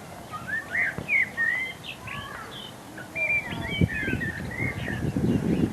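Several small birds chirping and twittering in quick, overlapping calls. A low rumbling noise joins a little past halfway.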